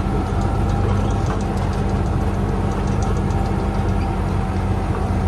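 An engine running steadily at idle, its low hum holding one pitch without revving, with faint ticking over it.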